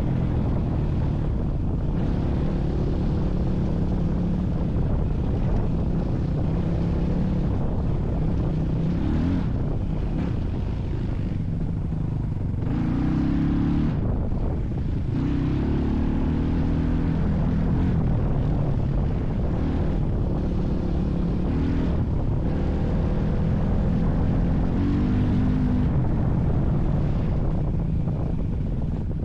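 A motor vehicle's engine running while driving, its revs rising and falling every few seconds as the load changes.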